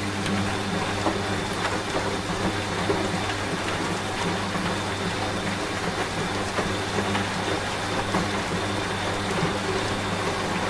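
Steady rain pattering, with a washing machine running underneath as a low steady motor hum that comes in at the start.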